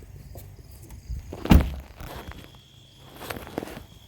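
A heavy thump about a second and a half in, with a few lighter knocks and steps around it.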